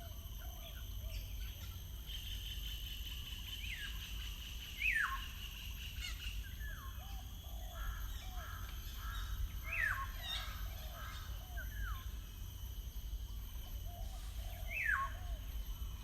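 Several wild birds singing and calling together. The loudest is a sharp downslurred whistle, repeated three times about five seconds apart, over softer repeated short notes and a buzzy trill, with a steady low rumble of outdoor background underneath.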